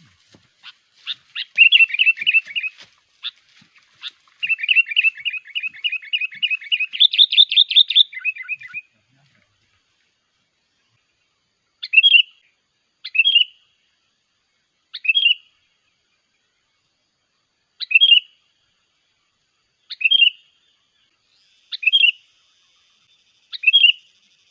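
Sooty-headed bulbul (kutilang) calls: a fast chattering run of notes for several seconds, then after a pause, short single calls repeated about every two seconds.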